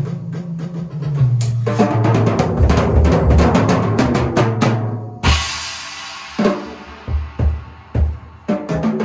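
Drum kit being played: a fast run of drum strokes for about five seconds, ending in a cymbal crash that rings out, followed by a few single hits.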